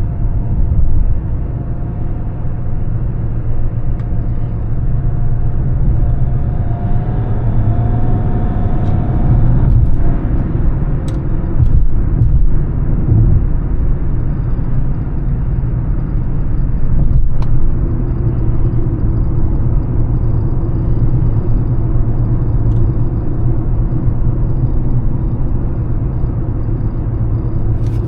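Mercedes-Benz E320 CDI diesel car driving: a steady low engine and road rumble. A faint tone rises slightly for a few seconds about a quarter of the way in, and a few brief knocks come through.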